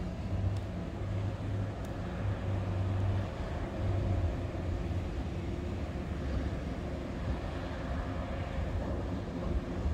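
A commuter train's locomotive running as the train passes some distance away: a steady low engine hum over outdoor rumble. The hum is strongest for the first few seconds, fades, and comes back near the end.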